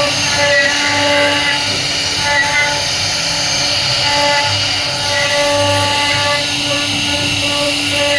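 CNC router running steadily as it carves a wood panel, its whine holding a few fixed pitches that cut in and out every second or two.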